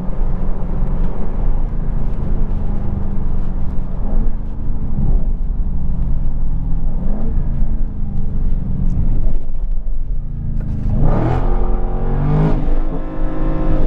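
2020 Dodge Charger Scat Pack's 6.4-litre V8 running under way, with a steady low engine note that rises sharply in pitch as the car accelerates about 11 seconds in and again near the end.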